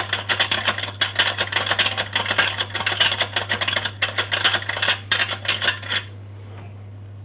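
Vintage Boomaroo tin toy washing machine running, its mechanism making a rapid, dense clattering rattle that cuts off about six seconds in.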